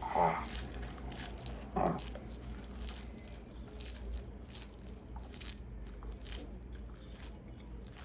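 A man chewing a mouthful of raw baby arugula leaves with an open mouth, a run of crisp, wet crunches and crackles. There are two short mouth sounds near the start and about two seconds in.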